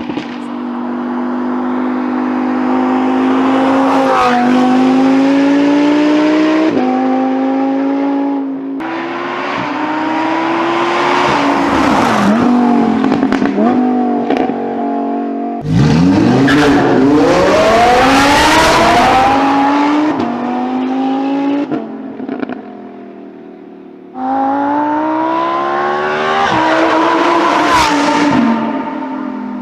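Lamborghini Huracán EVO RWD's 5.2-litre V10 through a Novitec sport exhaust, accelerating hard: the pitch climbs and steps back down at each upshift, over several passes joined by abrupt cuts.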